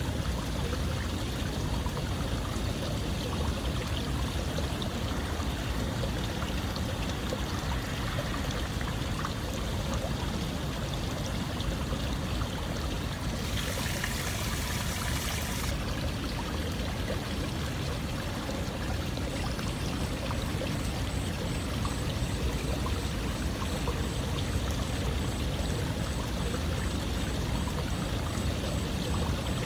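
Continuous running water, a steady pouring, stream-like rush with no pauses. About halfway through, a brighter, hissier splash rises over it for about two seconds.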